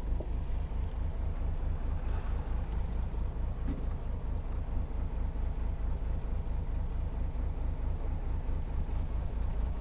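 A small fishing boat's engine running steadily, a low, even rumble with a fast pulse.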